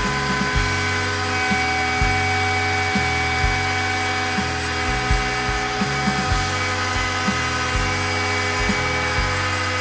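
A DIY CNC router's spindle runs with a steady high whine as it cuts plywood. Music with a steady bass beat plays under it.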